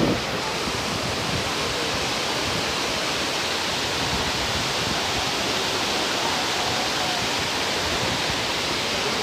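Steady rushing of water falling at the Cola de Caballo waterfall, an even roar with no breaks.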